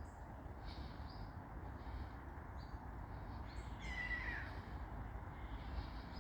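Birds calling faintly: scattered short high chirps, and one clearer drawn-out wavering call that falls in pitch about four seconds in, over a low wind rumble.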